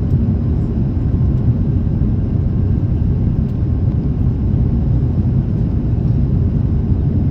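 Steady, loud low rumble of an Airbus A330-300 airliner cabin in motion, with no distinct tones or knocks.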